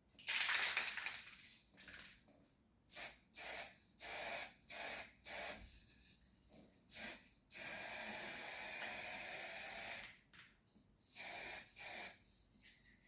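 Paint spraying in a run of short hissing bursts, then one steady pass of about two and a half seconds, then two more short bursts.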